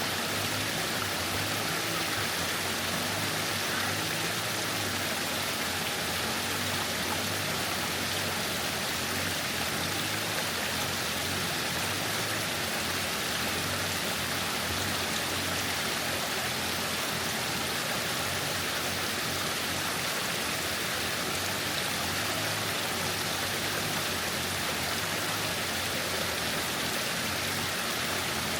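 Waterfall rushing in a steady, unbroken wash of falling water.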